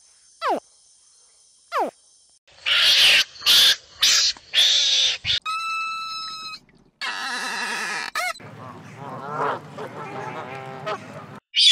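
A rapid run of different animal calls, one after another. Three quick falling whistles come first, then a few seconds of harsh honking calls, and then a string of other, varied calls to the end.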